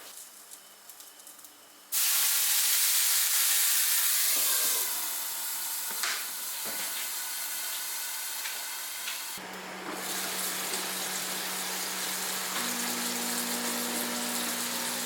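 Fish hamburger patties frying in a hot pan. A sudden loud sizzle starts about two seconds in, then settles into a steady sizzle with small pops. A steady low hum joins about two-thirds of the way through and steps up in pitch a few seconds later.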